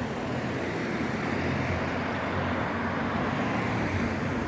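Street traffic passing: a steady rumble with a low hum that grows a little louder in the middle and eases near the end.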